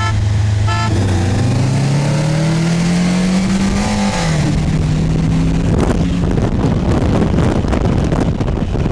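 Turbocharged 2004 Mitsubishi Lancer Ralliart's 2.4-litre four-cylinder accelerating hard from a roll, heard from inside the cabin: the engine pitch climbs steadily for about three seconds, drops at a gear change about four seconds in, then pulls on under rising wind and road noise.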